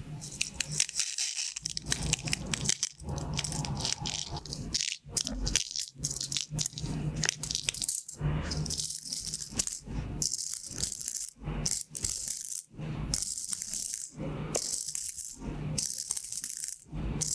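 Pin art toy's many pins sliding and rattling in their frame, in repeated bursts with short pauses between.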